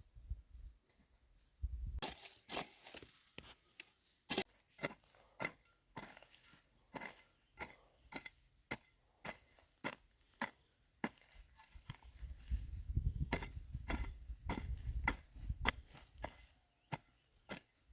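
Repeated sharp blows of a tool on wood, about two a second, starting about two seconds in.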